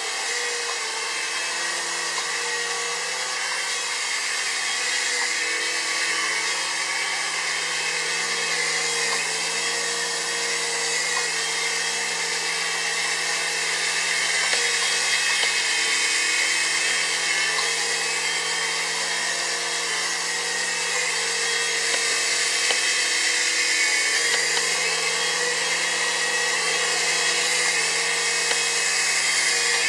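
QS9005 toy RC helicopter's small electric motors and rotors whirring steadily, a high-pitched whine with small rises and falls in level.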